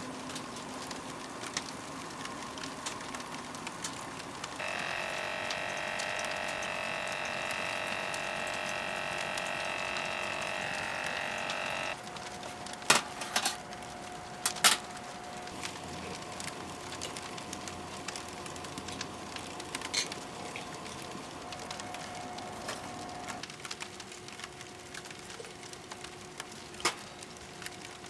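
Wood fire burning in a camping wood stove, a steady crackle with occasional sharp pops. A steady layered tone sounds over it from about five seconds in until about twelve seconds in, then a fainter single tone continues.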